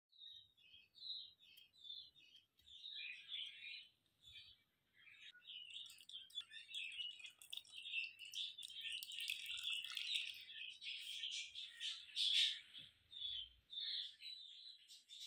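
Small birds chirping steadily, many short overlapping chirps, with one louder chirp near the end.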